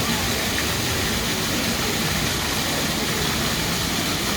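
Pavement water fountain running: a steady, even rush of spraying and splashing water.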